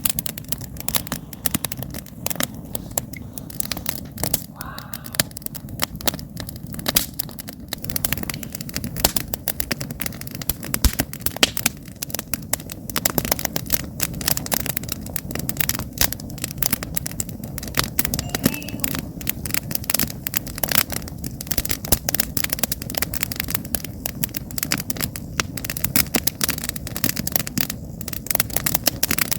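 Wood campfire burning: logs crackling and popping irregularly and constantly, over a steady low rumble of the fire.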